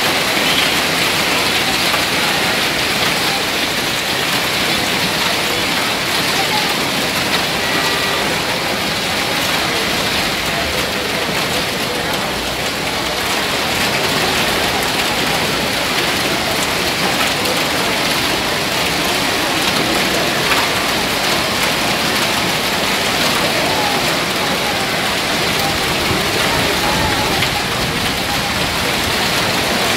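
Hail and heavy rain pelting down in a summer hailstorm: a dense, steady hiss of countless small hits.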